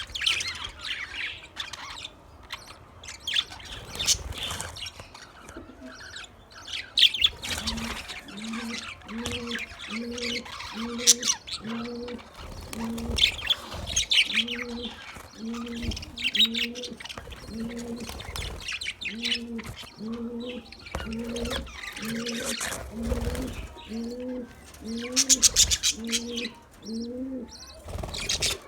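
Budgerigars chattering and warbling with quick, high chirps and trills. From about a third of the way in, a steady series of low coos repeats about one and a half times a second beneath the chatter.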